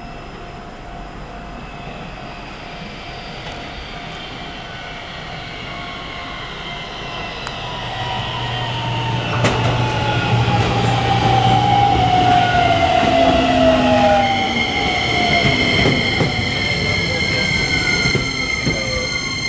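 Keisei 3100 series Toyo hybrid-SiC VVVF inverter and traction motors whining, heard on board. The whine grows louder about halfway through, its tones gliding downward in pitch, and a set of steady high tones sets in over it. Falling inverter tones like these are typical of a train slowing under regenerative braking.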